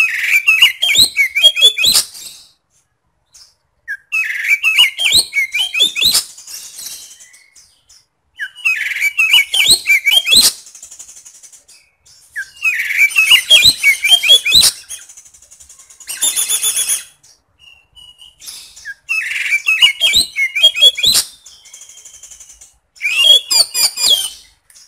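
Oriental magpie-robin (kacer) singing loud, rapid phrases of about two seconds each, six times, with short pauses between. The phrases mix quick sweeping whistles with harsh, scratchy fill-in notes, and a buzzy rasping note comes about sixteen seconds in.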